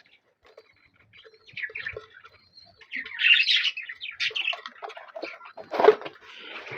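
Budgerigars chirping and chattering in short, irregular calls, busiest in the second half, with the loudest burst about six seconds in.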